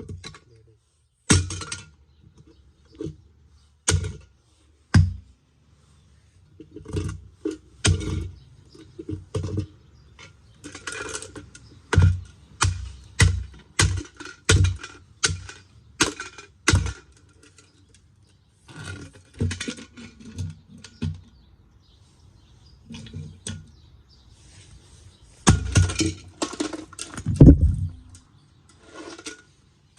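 An Aroma electric water heater kettle being smashed: dozens of sharp, irregular knocks and cracks, coming in quick runs with brief pauses and most dense in the middle and near the end.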